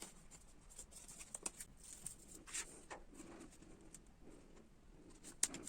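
Faint scattered rustles and small clicks of paper and cardboard pieces being handled while double-sided tape is applied, a few louder ticks among them.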